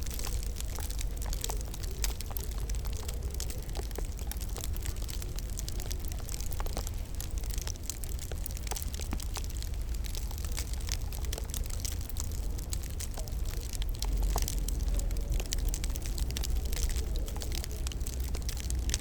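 Wood fire crackling in a fireplace: many small, sharp pops and snaps, irregular and continuous, over a steady low rumble.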